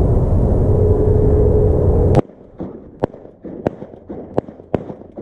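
Wind buffeting the microphone. It cuts off about two seconds in, and a quick series of sharp shotgun shots follows, about half a second apart, as hunters fire at passing geese.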